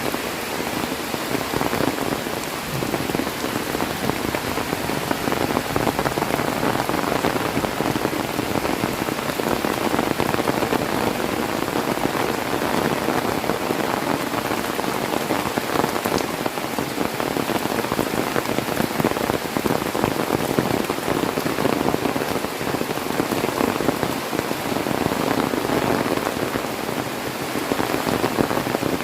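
Heavy rain falling steadily, a dense, even patter of drops that swells and eases slightly.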